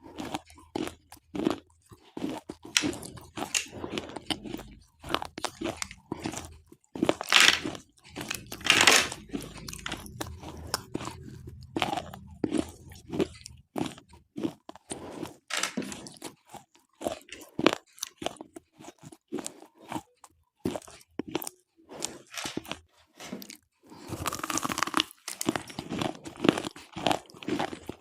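Slate pencils being bitten and chewed close to the microphone: a run of sharp, irregular crunches.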